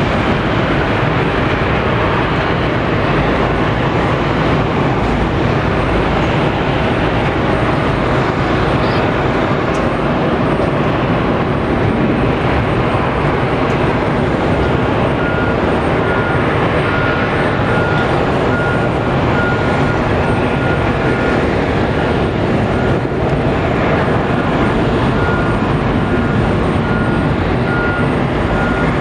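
Boeing 777-200 airliner's jet engines running steadily and loudly, an even rush without rising or falling. From about halfway a faint high-pitched beep repeats roughly once a second.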